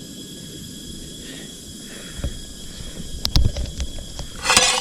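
Vegetables frying in a pan on a camping gas stove, with a steady low hiss. A few sharp metal clicks of a utensil against the pan come about three seconds in, and a brief loud rasp near the end as the food is stirred.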